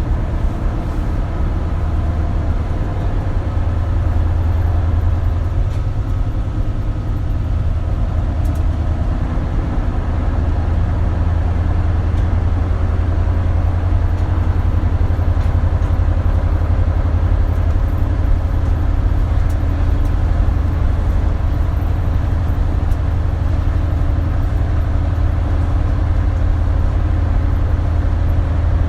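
Isuzu Erga (KL-LV280L1) city bus's diesel engine running steadily as the bus drives, heard from inside the cabin as a deep, continuous drone; the engine note shifts slightly about ten seconds in.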